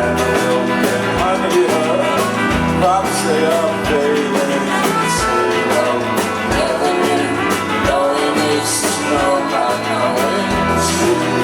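A rock band playing live, with guitars, bass and a steady drum beat.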